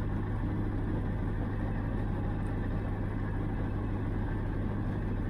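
Gyrocopter engine running at a steady speed, heard from on board as an even, unbroken drone with a strong low hum.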